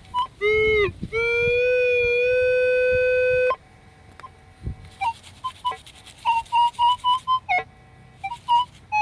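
Metal detector sounding off over a buried target: a brief low tone, then a long steady low tone lasting about two and a half seconds. After that comes a run of short higher-pitched beeps at two alternating pitches.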